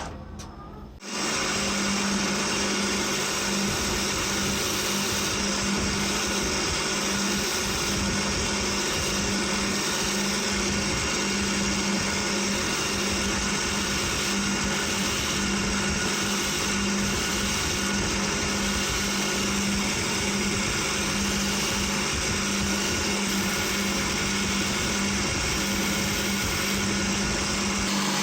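Electric power tool switched on about a second in, then running steadily at constant speed with an even hum.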